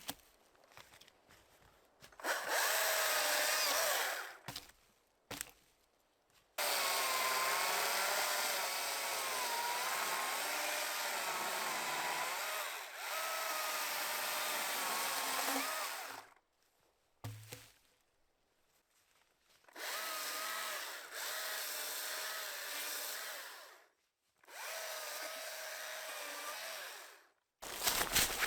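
A power tool running in several bursts of a few seconds each, its motor pitch wavering under load as it works wood. The longest run lasts about nine seconds.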